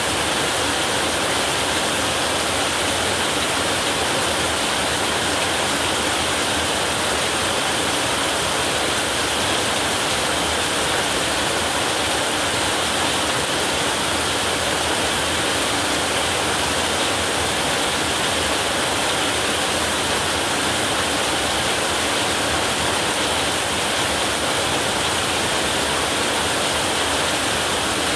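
Heavy rain pouring steadily onto a metal roof, a dense, even hiss with no letup.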